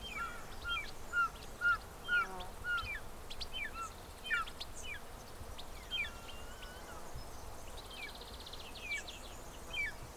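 Birds calling: a quick series of short chirping calls, about two a second, with a brief buzzy trill near the end, over steady outdoor background noise.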